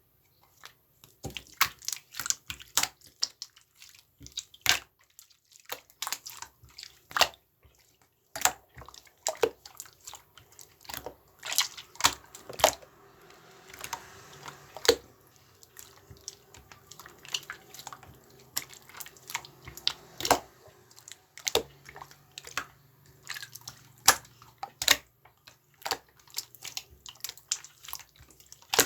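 Slime being squished and worked by hand, giving irregular sticky clicks and little air-pocket pops, several a second and uneven in loudness.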